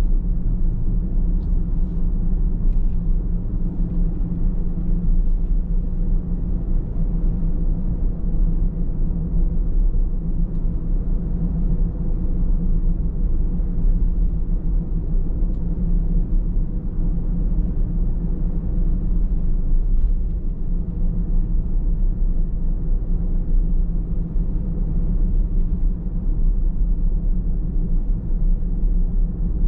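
A car driving at a steady pace: a constant low rumble of tyres on the road and engine noise.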